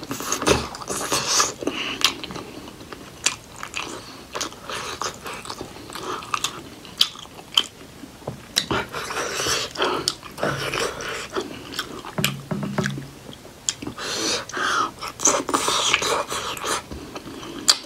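Close-miked wet chewing and lip-smacking of soft steamed buffalo-meat momos, with many sharp mouth clicks.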